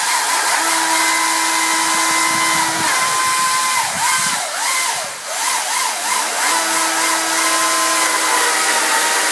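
Battery-powered electric chainsaw running at high speed with a steady whine; in the middle its pitch dips and recovers several times in quick succession before it settles again.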